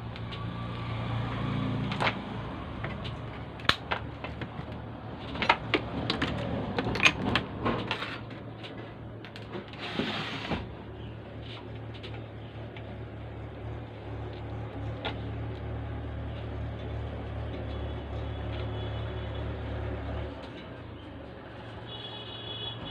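Scattered small clicks and taps from handling tools and parts while a replacement BC549 transistor is fitted to an amplifier board, over a steady low hum. The clicks cluster in the first eight seconds, a short hiss comes about ten seconds in, and the hum drops away near the end.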